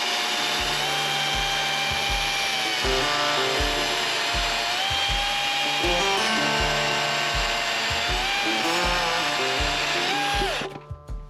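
Power drill running with a steady whine, its pitch dipping and rising as the load changes, over background music with a steady beat. The drill winds down near the end, leaving the music.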